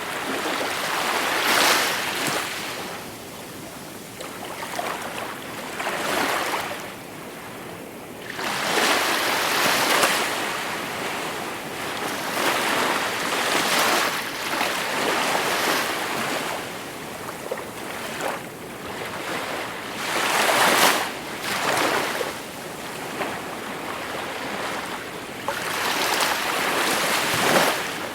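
Small sea waves breaking and washing on a shore, each surge of surf swelling and fading every few seconds.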